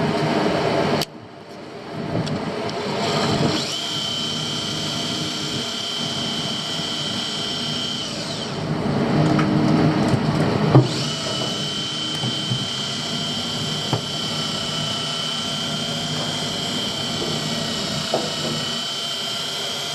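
Fishing reel winding in line with a steady high whine, which stops for a few seconds partway through and then starts again.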